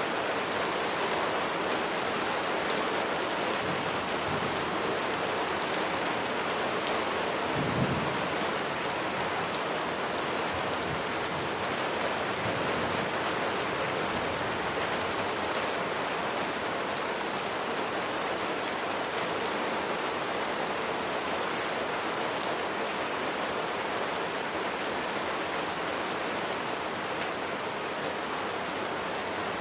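Steady heavy rain falling, with fine drop ticks on top, and a short low thump about eight seconds in.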